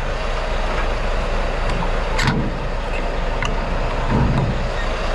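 Semi-truck's diesel engine running with a steady low drone, with a few short clicks and low knocks over it.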